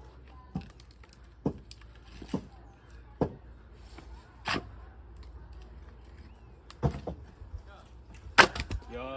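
An axe striking a log again and again during wood splitting, about seven sharp knocks at uneven intervals, the loudest near the end. The log is a tough one to split.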